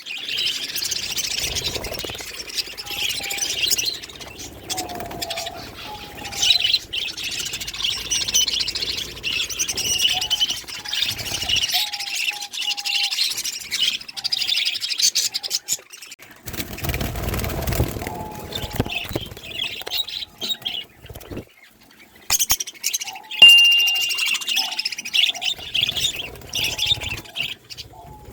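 Many small cage birds (finches and budgies) chirping and chattering together without a break, with short whistled notes among them. A brief low rumble comes about two-thirds of the way through, and a sharp loud chirp or click a little later.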